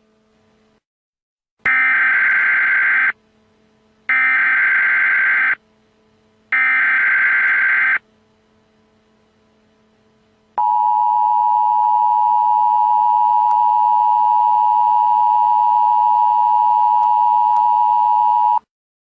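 Emergency Alert System broadcast signal: three short bursts of digital SAME header data about a second apart, then a long steady EAS attention tone lasting about eight seconds that cuts off sharply.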